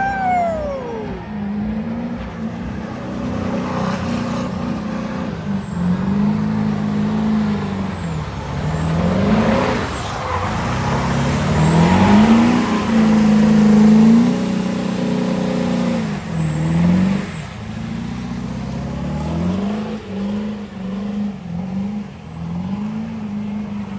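Diesel pickup truck engine revving up and down over and over, each rev rising and then dropping back. The revs are at their loudest in the middle. There is a short falling whistle at the very start.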